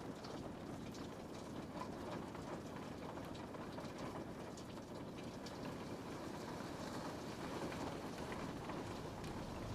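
Steady rain pattering on a window pane, with a dense run of small droplet ticks over a low, even wash of rain noise.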